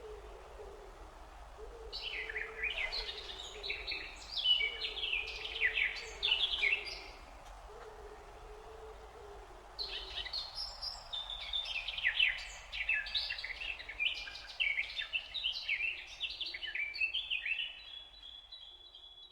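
Birdsong: a songbird's fast, varied chirping warble in two long spells, a few seconds in and again from about halfway, over a low hooting or cooing call repeated in phrases that stops about halfway through.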